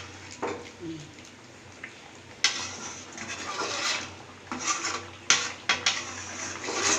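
A spoon stirring and scraping in a cooking pot, in irregular strokes, with several sharp knocks of the spoon against the pot, the loudest about two and a half and five seconds in.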